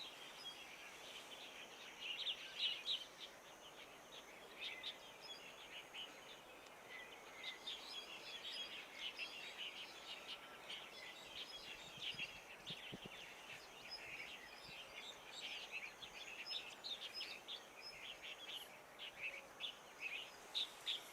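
Small birds chirping and twittering, a dense run of short high chirps, fairly faint, with a thin steady high tone coming and going above them.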